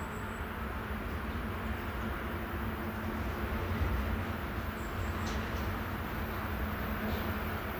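Freight train running past at a level crossing: a steady low rumble of wheels and wagons with no sharp breaks.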